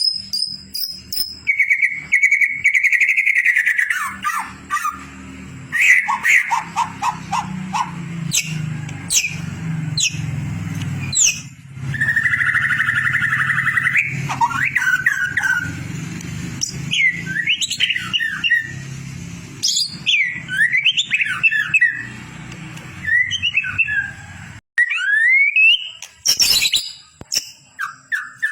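White-rumped shama (murai batu) singing a varied song of clear whistles, rapid trills and fast sweeping notes, played as a training recording for songbirds. A low steady hum lies beneath it and cuts off near the end.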